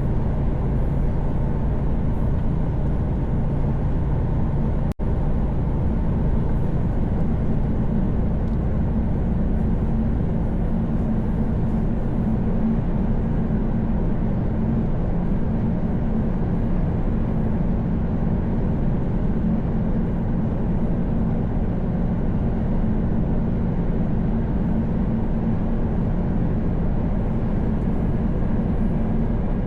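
Mercedes Actros truck cruising at highway speed, heard from inside the cab: a steady engine drone under road and wind noise. The sound cuts out for an instant about five seconds in.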